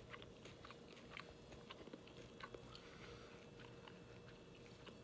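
Faint chewing of a bite of pan-fried bullhead catfish: soft, scattered mouth clicks several times a second over a faint steady hum.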